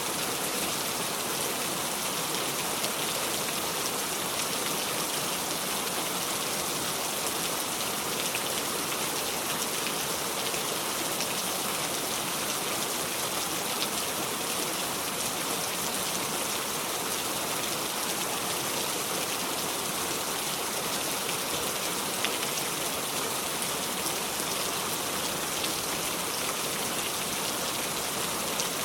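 Steady heavy rain without thunder: a constant hiss of rainfall with faint scattered drop ticks.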